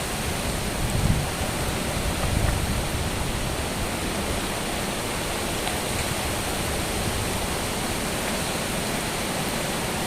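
Heavy rain falling steadily as a dense, even hiss, with wind buffeting the microphone in low gusts a couple of times in the first few seconds.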